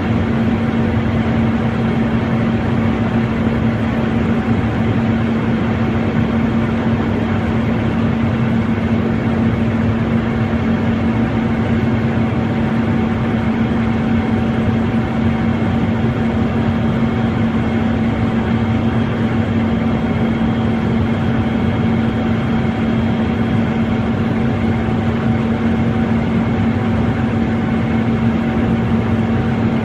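A steady, unchanging engine drone with one strong constant tone and no revving.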